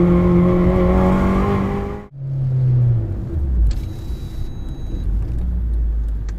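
Honda Civic Type R FN2's 2.0-litre four-cylinder engine pulling at high revs, heard from inside the cabin. About two seconds in the note cuts off abruptly and comes back at lower revs, falling and settling into a low drone.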